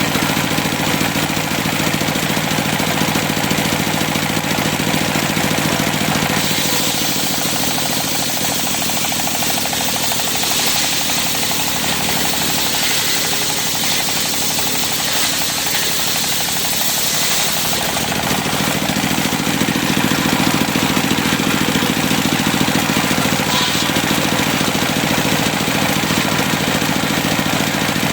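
Engine-driven circular sawmill running steadily. From about six to eighteen seconds in, the sound turns hissier while the blade cuts through cempaka wood.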